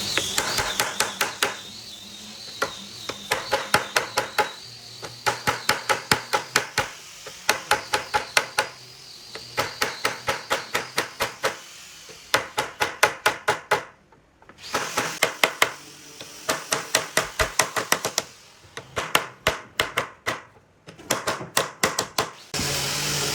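Quick hammer blows on wood, about six a second, in runs of several strikes broken by short pauses. Near the end a steady power-tool noise starts up.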